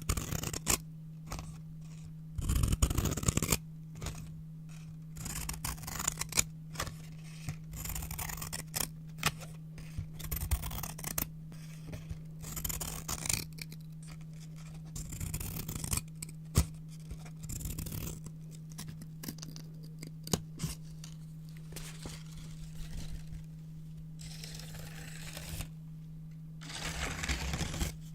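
Scissors cutting brown paper in a run of irregular snips and short paper rasps, with louder, longer paper noise about three seconds in and again near the end. A steady low hum runs underneath.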